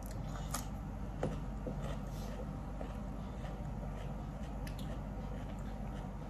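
Eating sounds of someone biting and chewing food, a few short crisp clicks and smacks scattered over a steady low hum.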